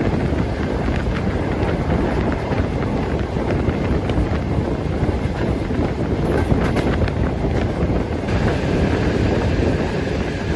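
Soviet-built sleeper train running: a steady rumble of the wheels on the track with scattered light rattles and clicks, and wind on the microphone.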